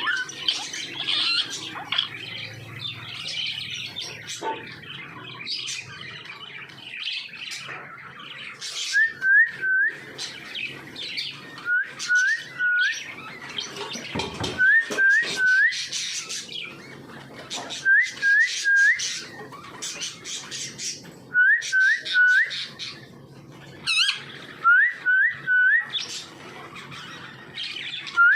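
Parrot chirping and squawking, with a group of three short rising whistles repeated about every three seconds after the first several seconds.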